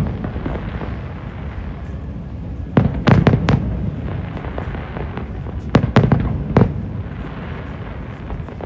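Fireworks exploding overhead: two clusters of several sharp bangs each, one about three seconds in and one about six seconds in, over a steady rumble.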